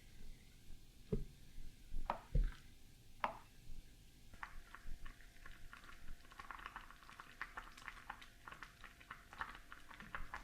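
Kitchen food-preparation handling sounds: a few separate knocks early, then from about four seconds in a busy run of quick light clicks with wet squishing.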